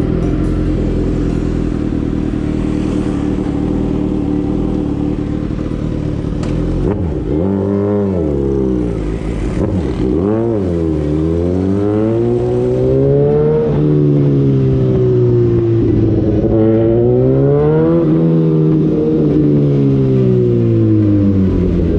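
Suzuki motorcycle engine, its exhaust pipe freshly repaired, idling steadily for about seven seconds, then pulling away: the pitch climbs and drops back several times as the rider accelerates through the gears, holds steady while cruising, and falls slowly near the end as the throttle eases off.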